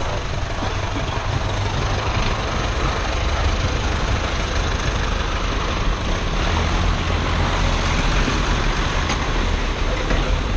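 An engine running steadily: a constant low rumble under an even rush of noise.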